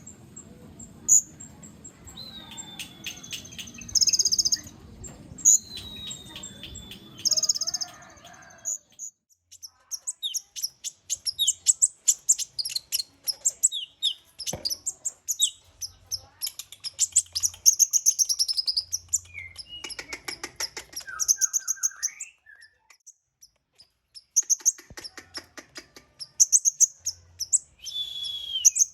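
Kolibri ninja sunbirds chirping and twittering: quick runs of very high, thin ticks and chirps, with a few short gliding whistles.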